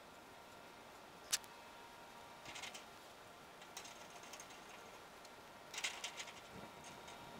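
Faint, scattered clicking and rattling of hand tools at work: one sharp click, then several short bursts of light clicks and rattles.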